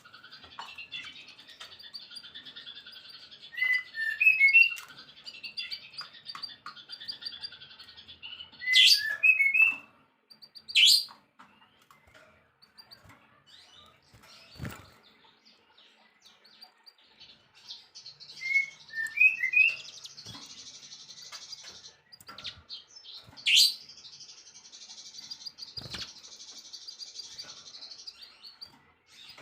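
Songbirds chirping and singing: long, rapid, high-pitched chattering trills broken by small clusters of short clear notes, with a few sharp rising whistles around nine, eleven and twenty-three seconds in.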